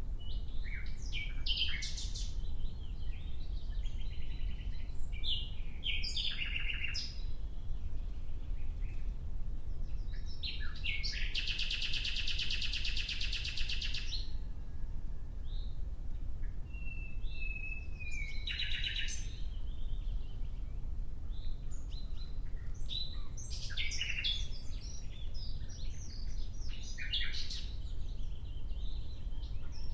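Nightingale singing in separate varied phrases with short pauses, including a fast run of rapidly repeated notes lasting about two seconds near the middle, over a steady low background rumble.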